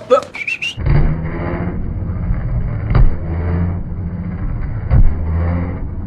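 Car engine held at steady high revs, with a couple of sharp bangs about three and five seconds in.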